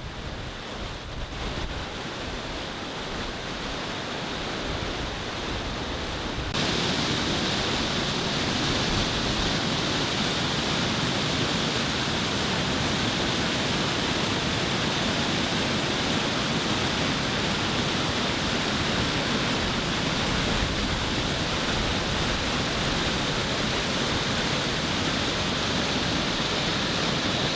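Rushing water of a small river waterfall: a steady noise that jumps abruptly louder about six and a half seconds in, then holds.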